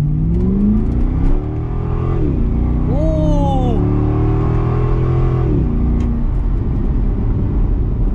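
Corvette LS V8 with an aftermarket exhaust and a ported throttle body, heard from inside the cabin under hard acceleration. It revs up, drops in pitch at an upshift about two seconds in, climbs again, then falls back to a steady cruising drone a little after halfway as the throttle is lifted.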